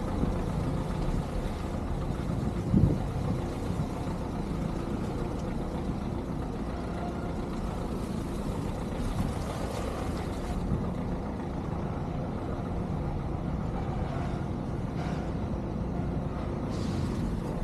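Ford Ikon sedan's engine running low and steady as the car creeps along at walking pace, with a brief thump about three seconds in.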